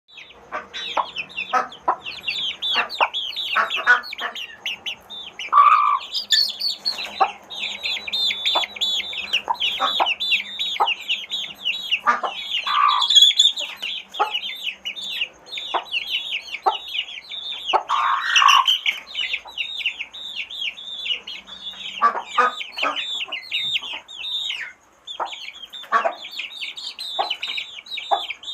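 A group of chicks peeping continuously: many short, high, downward-sliding peeps overlapping one another, with a few lower, louder calls breaking in now and then.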